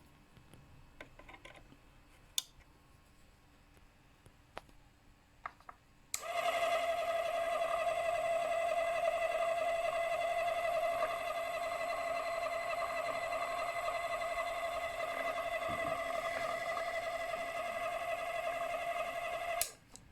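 Mini-lathe motor switched on about six seconds in, running at a steady high-pitched whine, then switched off abruptly shortly before the end. A few light clicks and taps of handling come before it starts.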